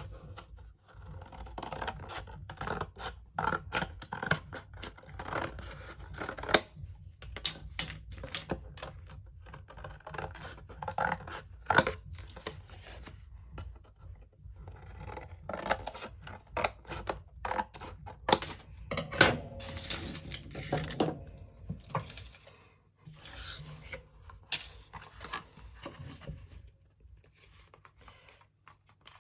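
Cardboard boxes and paper being handled and worked by hand: an irregular run of scrapes, rustles and sharp clicks that dies down near the end.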